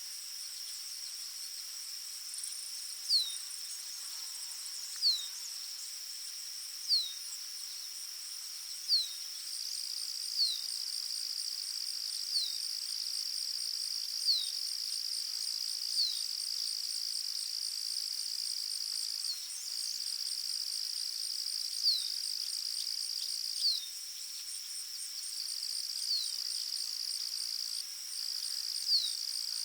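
Steady, high-pitched trilling of insects, with a short, sharp descending whistled note from a bird repeated about every two seconds, pausing for a few seconds in the middle.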